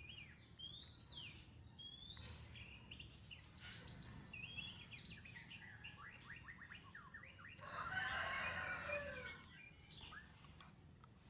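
White-rumped shama (murai batu) singing a varied song of whistles, quick down-slurred notes and rapid trills, with a louder harsh, rasping chatter about two-thirds of the way through.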